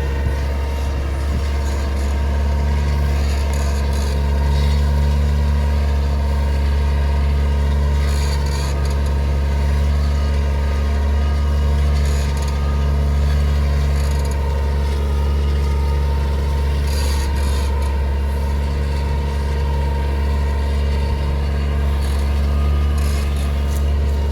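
New Holland T7040 tractor's six-cylinder diesel engine running steadily under load while pulling a subsoiler ripper through hard ground. It is a deep, continuous drone that swells and eases slightly every few seconds.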